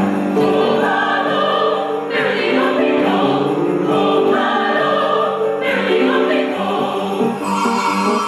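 A choir singing a Christmas carol, several voices holding long chords together.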